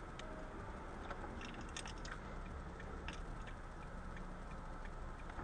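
Faint steady low rumble of a vehicle in motion, with scattered light clicks and ticks at an uneven pace.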